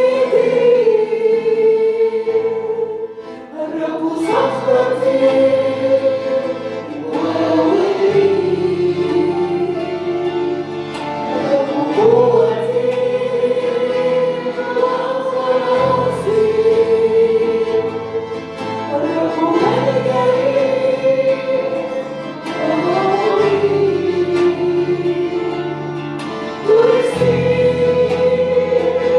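A group of voices singing a slow Christian worship song in long held notes over instrumental accompaniment, the bass note changing about every four seconds.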